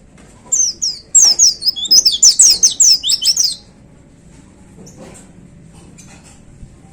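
White-eye (pleci) singing a rapid, loud burst of high, quickly falling notes for about three seconds, then stopping.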